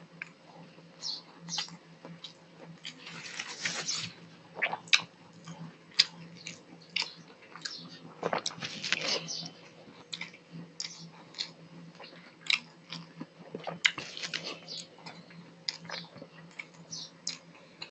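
Close-miked chewing and lip-smacking of a mouthful of rice and fish, with fingers mixing rice on a metal plate: wet clicks and squishes at irregular intervals, over a faint steady low hum.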